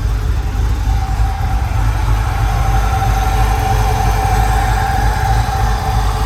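Freshly built LS 408 stroker V8 idling steadily on its first start-up, with a steady higher whine over the low engine note. It runs evenly with no exhaust leaks to be heard.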